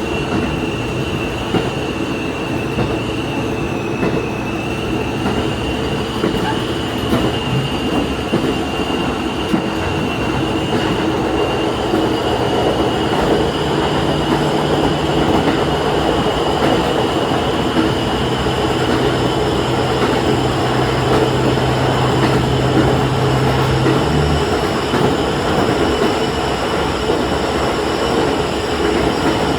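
Diesel railcar running along the line, heard from the driver's cab: steady rumble of wheels on track, with a steady engine note that shifts about seven seconds in and drops out about 24 seconds in, and a thin high whine throughout.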